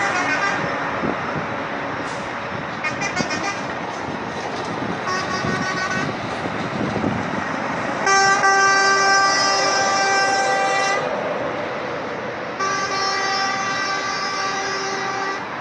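Vehicle horns sounding over steady road-traffic noise: a short toot about five seconds in, then two long horn blasts of about three seconds each.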